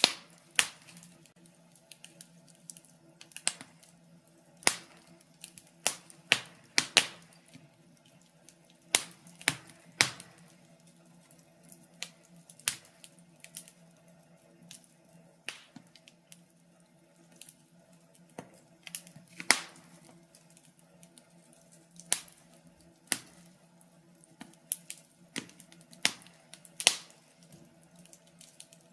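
Wood fire crackling in a fireplace: sharp, irregular pops and snaps, some loud, over a faint steady hum.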